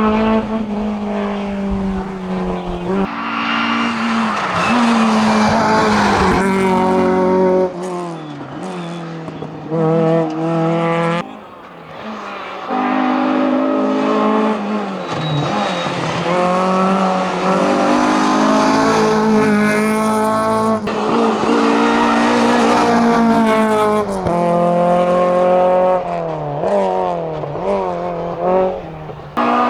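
Race car engine at full throttle on a hillclimb, revs climbing and dropping through gear changes, with tyre squeal. The sound changes abruptly several times, as if from one car or shot to the next.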